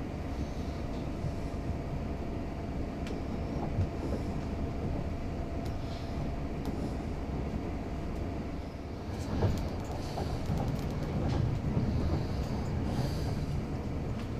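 Train running on rails: a steady low rumble with a thin steady whine through the first half, then a run of sharp clacks and knocks a little past the middle, after which the rumble grows louder.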